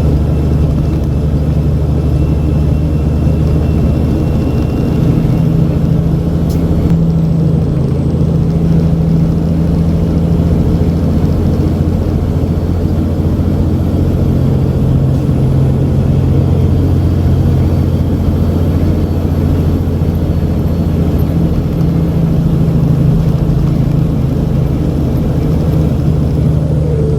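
Semi truck's diesel engine running steadily under load at road speed, a constant low drone with small changes in pitch.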